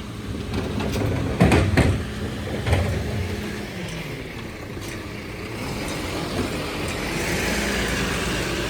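Mercedes Econic refuse truck's diesel engine running steadily, with a few sharp knocks in the first three seconds and a rising hiss near the end.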